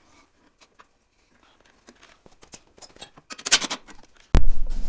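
Faint metallic clicks and a short scrape of hand work on the tractor, then a sudden loud thump with low rumbling just before the end.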